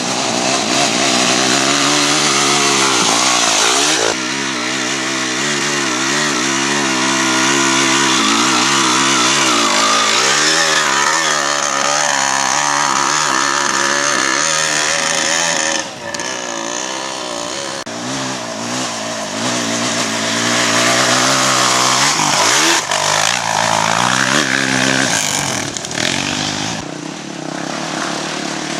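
Dirt bike engines running and revving, the pitch climbing and falling again and again as the throttle is worked, with a brief drop-off about four seconds in and again about sixteen seconds in.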